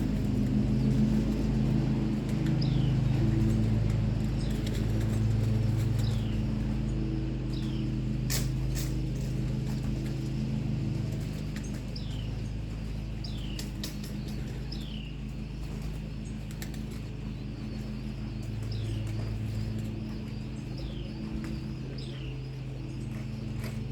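Birds chirping outdoors: short high chirps that fall in pitch, one every second or two, over a steady low hum. A few sharp clicks come about eight seconds in.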